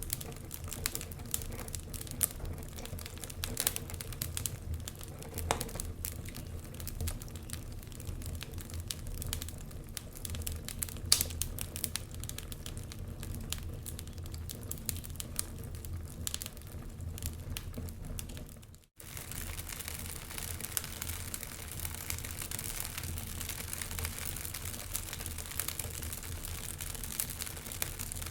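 Wood fire crackling in a fireplace: irregular sharp snaps and pops over a steady low rumble. About two-thirds of the way in the sound cuts out for an instant and comes back with more hiss.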